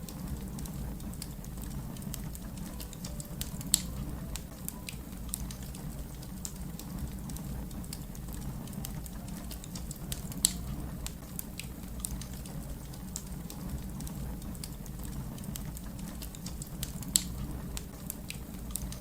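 Fire crackling: a steady low rumble of flames with scattered small crackles and three louder pops, spaced about seven seconds apart.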